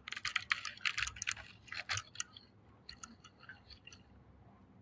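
Quick irregular small clicks and crackles, dense at first and thinning out after about two seconds.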